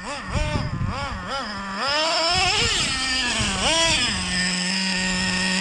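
Nitro engine of a Traxxas Revo 3.3 RC truck revved in quick throttle blips, each rising and falling, with one longer rev in the middle. It then drops back to a steady idle about four seconds in, during an engine tuning session.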